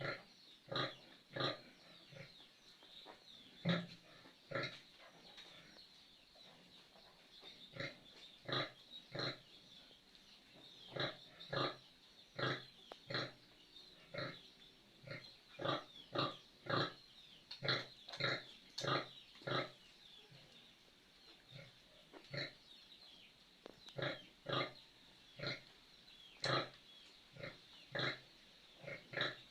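Pigs calling in short, repeated grunts, about one or two a second, in runs broken by pauses of a few seconds.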